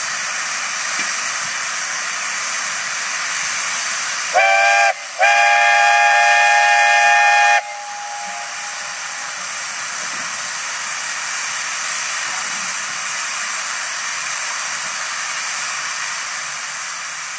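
Steam whistle blowing twice over a steady hiss: a short blast about four seconds in, then a longer one of about two and a half seconds. The whistle sounds a chord of several notes at once and slides up slightly as each blast starts.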